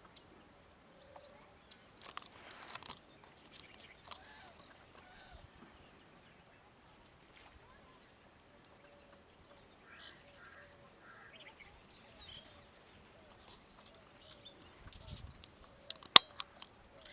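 Outdoor bird calls: a quick run of about eight sharp, high chirps, each falling in pitch, in the middle, with scattered fainter calls around it. A single sharp click near the end is the loudest sound.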